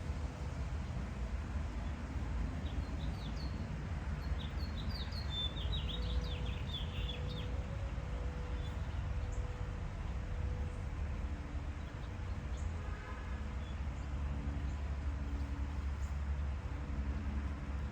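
Songbird chirping: a quick run of high, rapid notes starting about two and a half seconds in and lasting about five seconds, over a steady low rumble of outdoor background noise.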